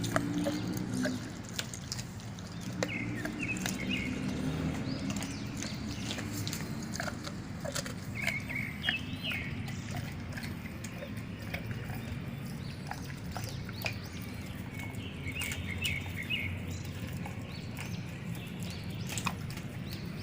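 Dogs chewing raw pork feet and chicken feet, with many irregular cracks and crunches as the bones break.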